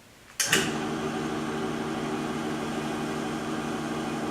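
Electric motor of a Falex lubricity testing machine starting abruptly about half a second in, then running with a steady hum.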